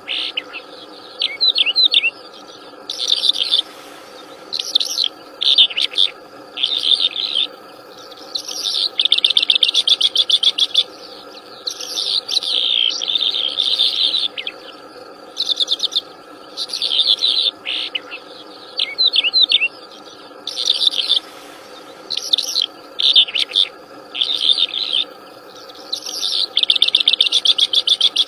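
Wild songbird singing actively in short, varied phrases, rapid trills and quick down-slurred notes, repeated every second or two, over a steady low hum.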